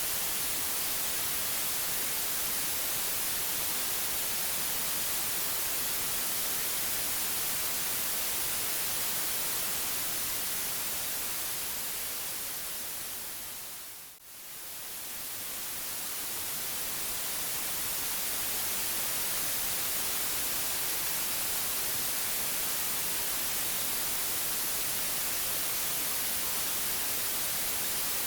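Steady white noise, an even hiss with most of its weight in the treble. About halfway through it fades down almost to nothing and swells back up over a few seconds.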